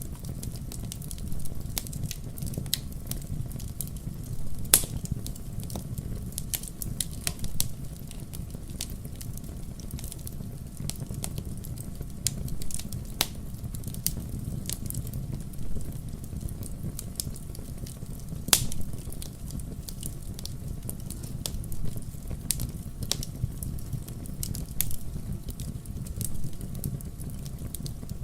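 Wood fire crackling in a fireplace: a steady low rumble of flames with irregular sharp pops and snaps, the loudest pops about five seconds in and again about eighteen seconds in.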